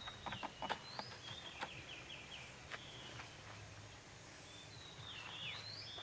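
Birds singing: clear whistled notes, a short run of quick repeated notes, and sliding calls toward the end, with a few sharp clicks in the first second.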